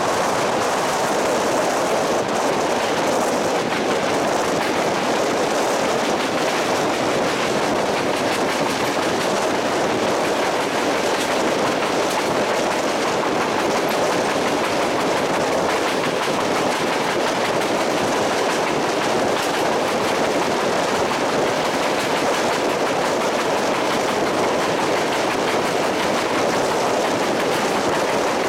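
Running noise of a moving train, wheels on the rails with a fine clicking, steady throughout.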